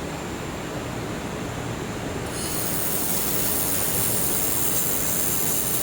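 Air-cooled handheld laser welder running with a steady machine noise. About two seconds in, a high hiss starts as the welding gun fires, and it stops near the end. This is a pass on which the wire feeder jams and stops feeding wire.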